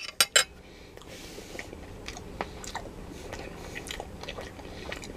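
A person chewing a mouthful of sausage with barbecue sauce: soft, wet mouth sounds with scattered small clicks. A few sharp clicks come right at the start.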